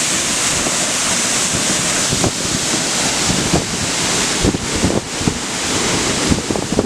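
Steady rushing roar of a tall waterfall heard from its base, with gusts of wind buffeting the microphone in irregular low thumps.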